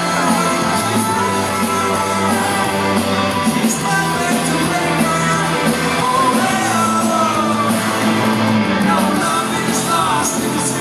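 Rock band playing live at full volume, with singing over guitars, bass and drums, in a large hall.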